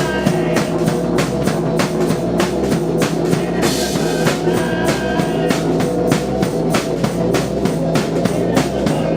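Live rock band playing a song: a fast, steady drum-kit beat over held droning notes, with a brief cymbal-like wash of hiss about four seconds in.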